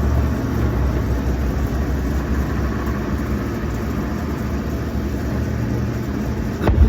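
Steady low rumble of distant fireworks and outdoor background, with one sharp firework bang near the end.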